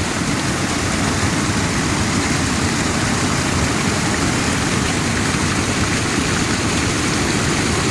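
A rain-swollen, newly formed river rushing fast: a loud, steady rush of floodwater.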